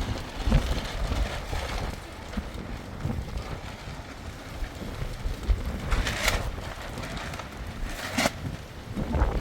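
Wind gusting against the microphone as a low, uneven rumble, with two short hissing bursts about six and eight seconds in.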